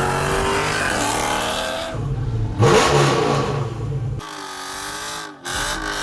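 A 5.7 Hemi V8 with its mufflers deleted, revving through an open exhaust, in several short pieces that change abruptly. The pitch swings up and down in the last couple of seconds.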